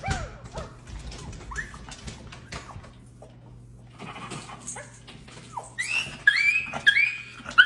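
A dog whimpering softly amid small clicks and knocks, then a run of loud, high, repeated cries near the end.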